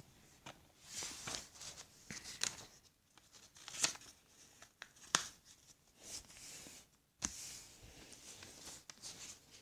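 A sheet of paper being folded and creased by hand: faint rustling and crinkling, with a few short crisp crackles as the fold is pressed flat.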